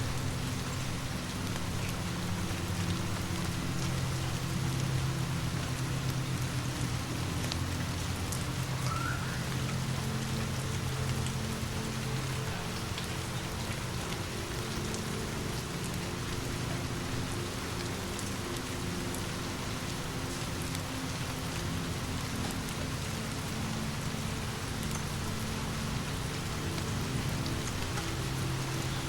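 Steady rain falling, an even hiss with scattered faint drop clicks. Underneath sit low held tones that shift every several seconds, like a soft ambient drone.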